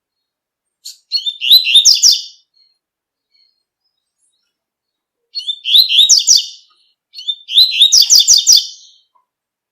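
Double-collared seedeater (coleiro) singing its 'tui tui' song: three short phrases of rapid high notes, the last two close together.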